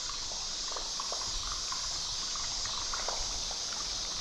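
Steady high-pitched chorus of night insects, with faint scattered trickling and dripping of water.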